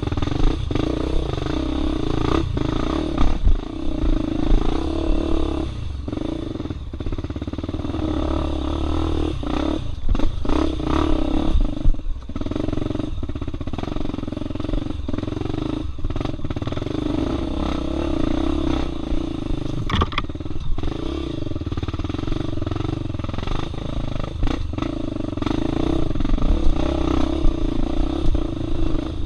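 Off-road motorcycle engine running with the revs rising and falling as it is ridden over rough trail, with frequent sharp clattering knocks.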